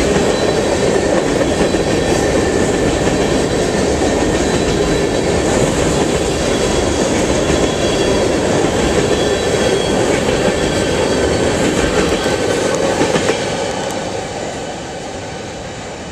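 Empty railroad tank cars rolling past close by, their steel wheels rumbling and clattering over the rails with a faint high squeal. The sound starts to fade about thirteen seconds in as the last car goes by.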